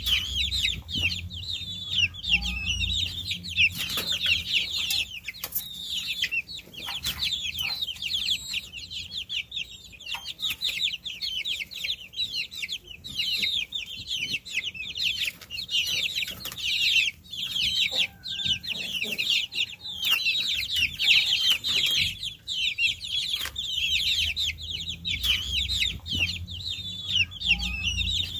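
A brood of baby chicks peeping continuously: many short, high, downward-sliding chirps overlapping in a dense chorus.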